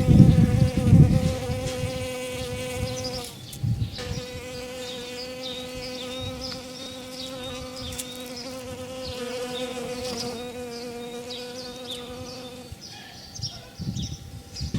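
Birds chirping repeatedly over a steady buzzing hum, which breaks off briefly a few seconds in and fades near the end; low rumbles at the start and again near the end.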